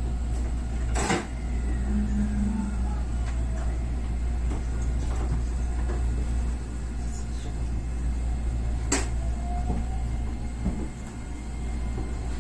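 JR West 125-series electric railcar heard from the cab: a steady low hum, with a sharp knock about a second in and another about nine seconds in, and a short low buzz about two seconds in.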